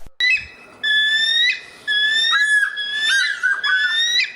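A run of high, clear whistled notes, some held steady and some bending or swooping in pitch, in about five or six short phrases.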